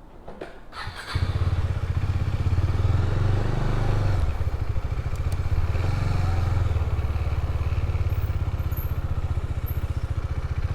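A motorcycle engine starting: a few clicks, then about a second in it fires up and settles into a steady idle.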